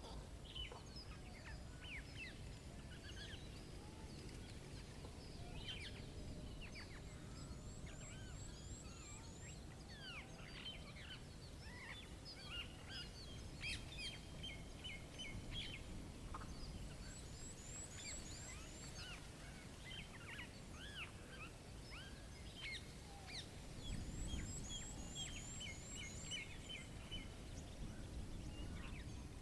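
A chorus of songbirds chirping and whistling, with repeated runs of quick even notes and a very high, rapid series of notes that comes back several times. A steady low rumble of outdoor ambience lies underneath.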